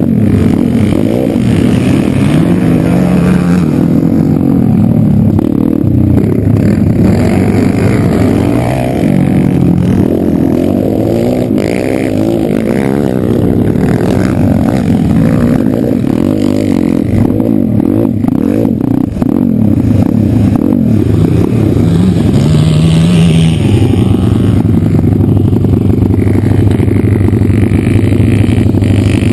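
Single-cylinder four-stroke engine of a 140cc pit bike running hard while ridden, heard from a bike-mounted camera. Its pitch rises and falls over and over as the throttle opens and closes.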